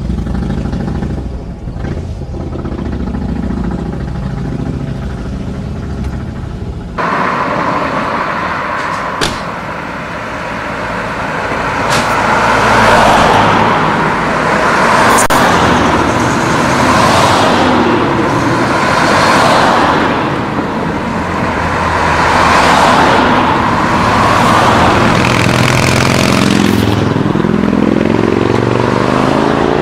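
Car engines running steadily, then from about seven seconds in a stream of cars driving past, their noise swelling and fading every couple of seconds.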